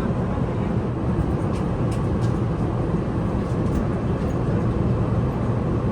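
Steady low rumble of an Airbus A380's cabin noise from inside, with a few faint light rattles or ticks.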